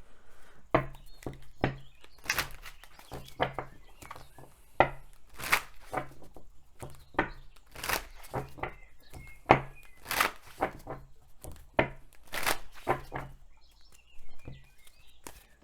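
A deck of oracle cards being shuffled and handled: many irregular sharp snaps and slaps of card against card, some with a dull knock against the table.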